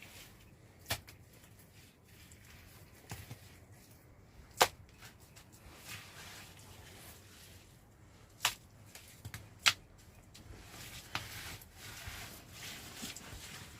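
Sharp knocks or snaps at irregular intervals, about seven in all, the loudest two about four and a half and nine and a half seconds in, over a faint steady hiss.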